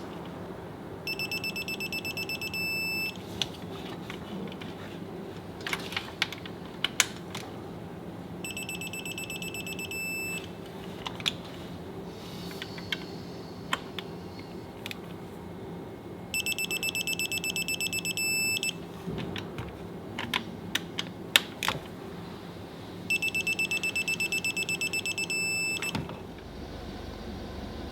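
An electronic beeper sounding four times in bursts of rapid high beeps, each burst about two seconds long, with scattered sharp clicks and a steady hum between them.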